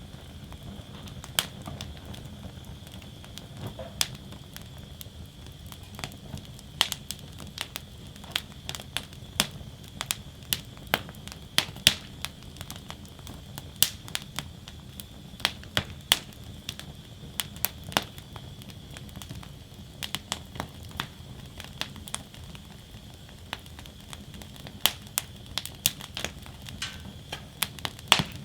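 Wood fire burning in a fire basket: irregular sharp crackles and pops of burning logs over a steady low rumble of the flames.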